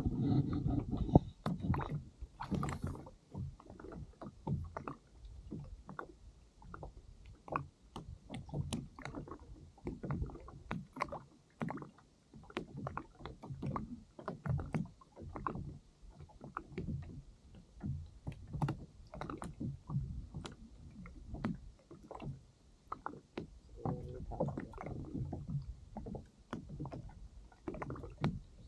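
Small waves slapping against a kayak's hull, a steady run of irregular low knocks and splashes about one or two a second.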